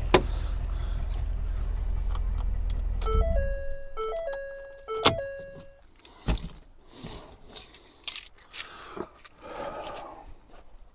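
Ford F-150 engine idling with a steady low rumble, then switched off about three seconds in. As it shuts down, the truck's electronic warning chime plays a short run of stepped tones. Scattered clicks, knocks and jingling follow.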